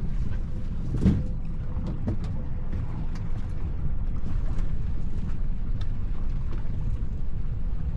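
Tow boat's engine running with a steady low rumble under wind buffeting the microphone, with one loud thump about a second in.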